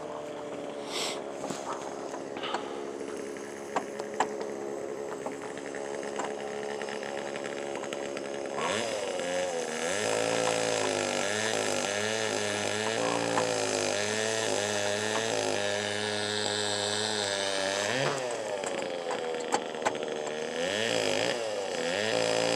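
An engine running steadily, then revving up and down over and over from about nine seconds in, with a few light clicks over it.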